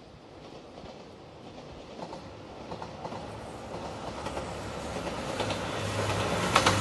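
JR Shikoku 2700 series diesel limited-express train approaching, growing steadily louder, with a low steady hum. Near the end its wheels start clicking over the rail joints.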